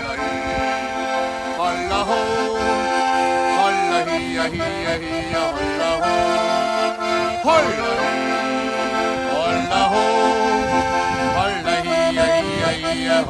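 Solo accordion (Schifferklavier) playing a sea-shanty melody over sustained chords, without singing.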